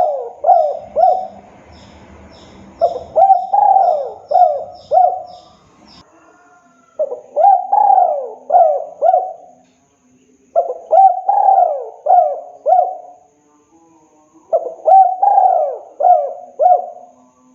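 Spotted dove (tekukur) cooing: phrases of four or five short coos, repeated about every three and a half seconds. Faint high chirps of another small bird run through the first few seconds.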